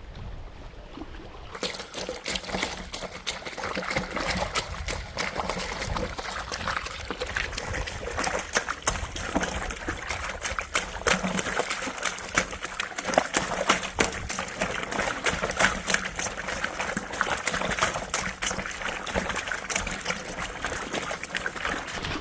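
River water splashing and trickling over rocks, a dense run of small irregular splashes that becomes fuller and louder about a second and a half in.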